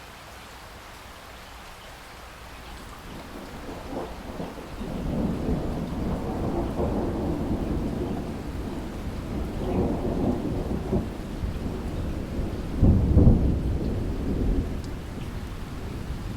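Steady rain with a long roll of thunder that builds from a few seconds in, swells to its loudest about two-thirds of the way through, then fades.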